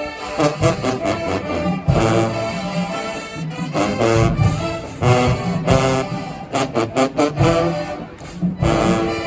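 Marching band playing, loud brass over a steady beat of drum hits.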